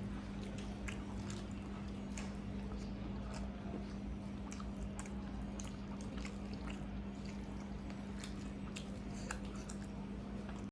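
Close-up eating sounds: wet chewing with frequent small smacks and clicks of the mouth, over a steady low hum.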